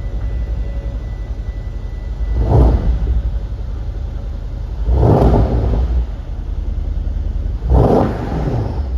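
2011 Mercedes-Benz CL 63 AMG's 5.5-litre M157 twin-turbo V8 idling with a steady low rumble, blipped three times in quick revs that fall back to idle.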